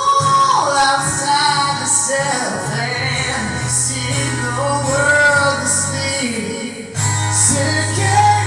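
Music: a sung melody over instrumental accompaniment, with a new phrase starting about seven seconds in.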